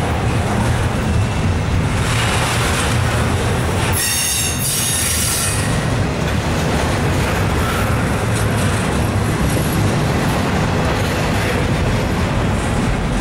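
Double-stack intermodal freight cars rolling past, with a steady rumble of steel wheels on the rails. About four seconds in, a high-pitched metallic squeal rings out for a second or two.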